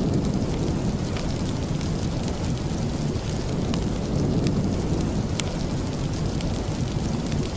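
Steady rain with a deep, even rumble underneath, and scattered sharp crackles from a wood fire.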